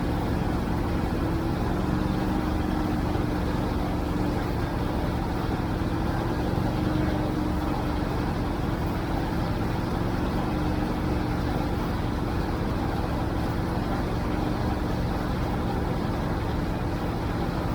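Tractor engine running at a steady speed, a constant drone with no change in revs.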